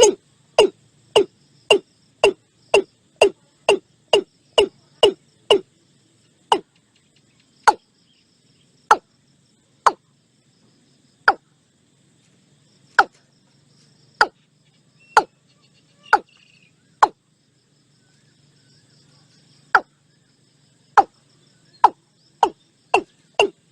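Watercock calling: a series of short, deep notes, each dropping in pitch. They come about two a second at first, slow to about one a second with longer gaps in the middle, then quicken again near the end.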